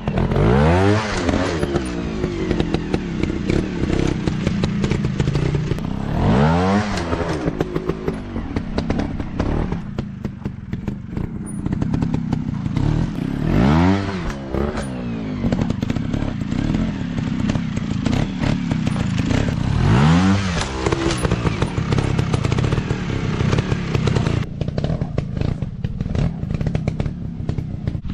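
Off-road dirt bike engines running hard, revving up and easing off four times in big sweeps, with scattered knocks throughout.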